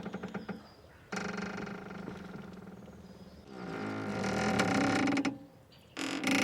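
Boat rope squeaking in a series of drawn-out, pitched creaks. One starts sharply about a second in, a louder one comes midway, and another starts near the end.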